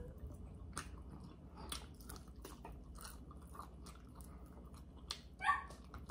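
People chewing and biting into baby back ribs, with scattered wet mouth clicks and smacks. A short high whine rises briefly about five and a half seconds in.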